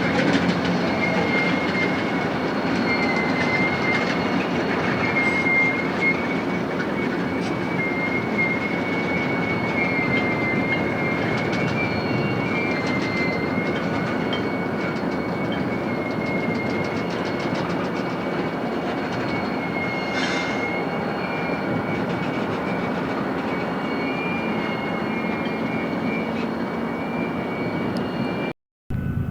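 Freight cars rolling slowly through yard tracks during switching, with a steady, wavering wheel squeal over the rumble and scattered clicks of wheels over rail joints.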